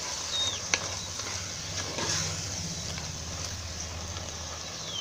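Mushroom and yogurt masala frying in a clay pot, a steady sizzle with a single sharp click about a second in, over a steady low engine hum. A short high falling chirp sounds near the start.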